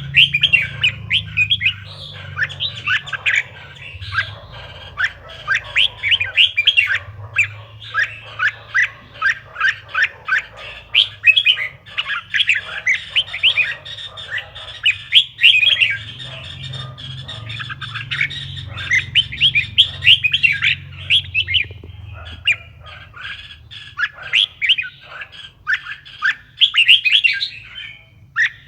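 Red-whiskered bulbul singing: a continuous run of quick, chirpy phrases of short notes, over a low steady hum.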